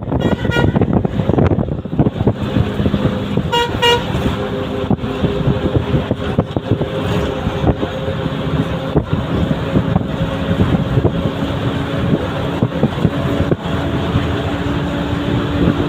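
Bus engine running with road rumble while travelling. A vehicle horn sounds briefly just after the start, then gives two quick toots about three and a half seconds in.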